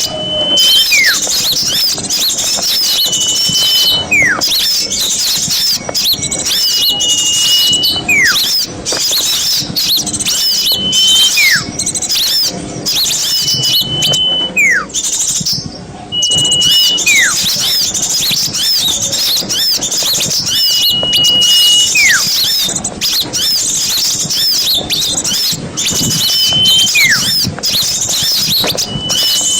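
Small songbirds chattering and chirping densely at a high pitch. Over them, one call repeats about every three to four seconds: a short level whistle followed by a falling whistle.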